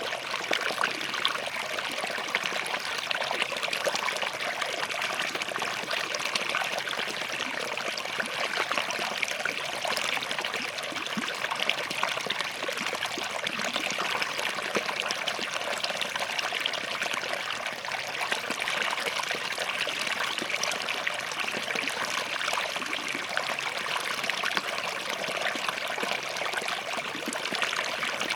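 Small forest stream flowing and trickling over rocks, a steady bright babble of water.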